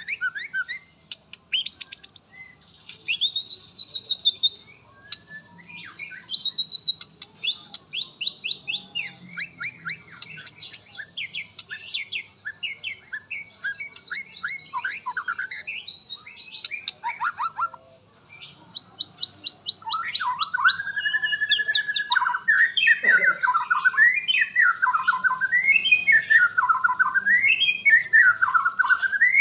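White-rumped shama (murai batu) singing: quick runs of chirps and trills, then, about two-thirds of the way in, a louder warbling phrase that swoops up and down in pitch over and over.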